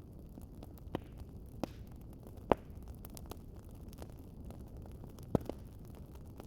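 Wood fire crackling: a steady low rumble of the flames with a few sharp pops, the loudest about two and a half seconds in and two close together near the end.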